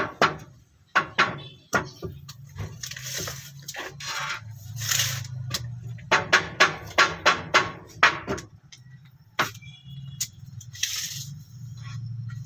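Two runs of quick, sharp knocks, about four a second, with bursts of hissing between them over a low hum.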